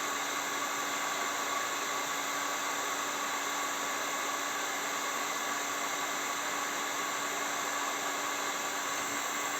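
Heat gun blowing steadily, heating a stuck aluminium pulley so that it expands off the steel engine shaft.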